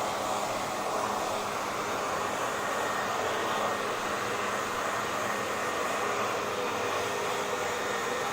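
Hair dryer running steadily: an even rush of blown air over the motor's faint hum, with no change in speed.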